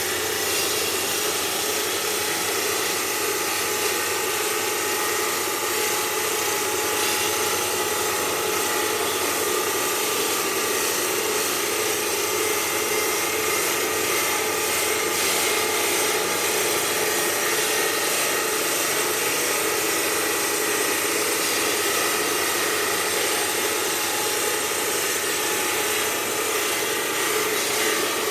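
Stone-processing machinery running steadily: an even, hissing mechanical noise with a few faint steady tones and no breaks.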